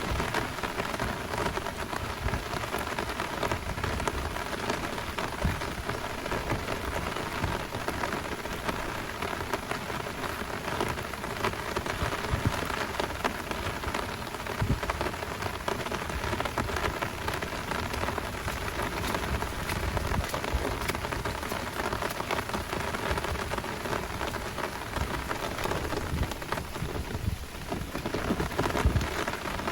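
Heavy downpour: a dense, steady hiss of falling rain with many close drops striking.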